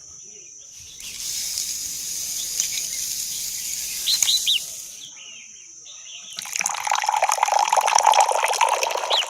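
Water rushing or spraying in two stretches, the second fuller and lower than the first, with a few short bird chirps in between.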